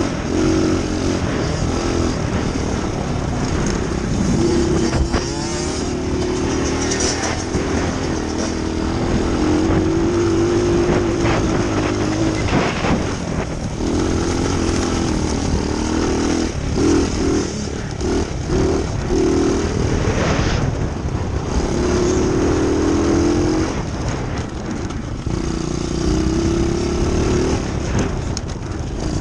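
Dirt bike engine running while the bike is ridden, its note holding and rising in stretches of a few seconds, then dropping away or cutting in and out as the throttle is eased and opened again, over a steady rushing noise.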